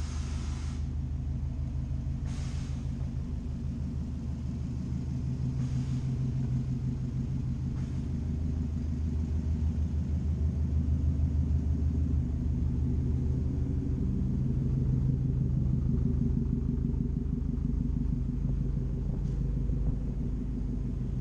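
Subaru WRX STI's turbocharged 2.5-litre flat-four idling steadily: a low rumble with a fast, even pulse.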